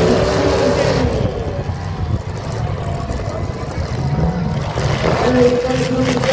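Demolition derby cars' engines running loudly, a continuous low rumble with a steadier engine tone coming in about five seconds in.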